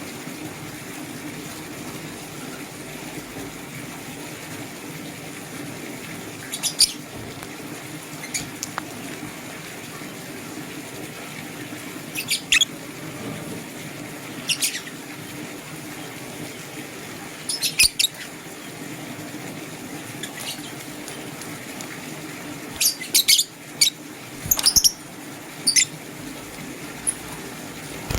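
Lovebirds giving short, shrill chirps, single calls every few seconds and then a quicker run of chirps near the end, over a steady background hiss.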